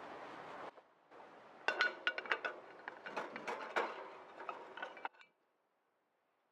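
Light metallic clinks and knocks of camp cooking gear being handled, a quick irregular run of a dozen or so strikes with short ringing over about four seconds.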